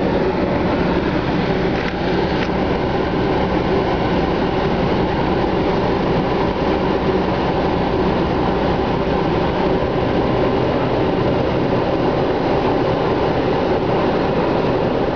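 2001 Pontiac Bonneville's 3800 Series II V6 idling, heard from inside the cabin as a steady, even drone with a few faint steady hums.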